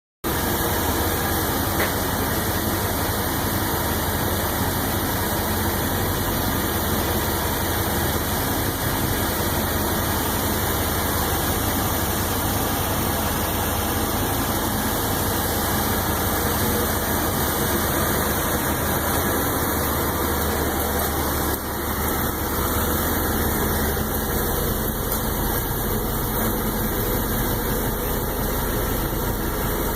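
1996 Chevy pickup truck's engine idling steadily.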